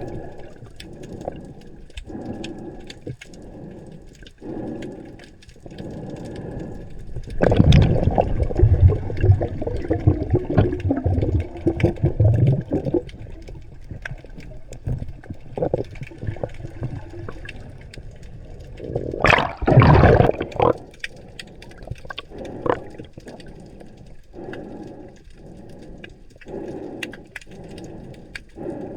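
Sea water swishing with a regular pulse a little under a second apart. A long, loud, low rumble runs from about seven to thirteen seconds in, and a short loud rush comes about nineteen seconds in.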